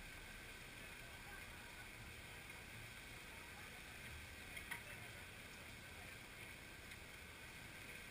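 Near silence: faint steady outdoor background hiss, with a single brief click about halfway through.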